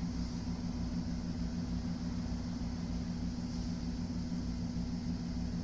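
Steady mechanical hum of a running motor or fan, with a low pulsing undertone and a faint hiss above it.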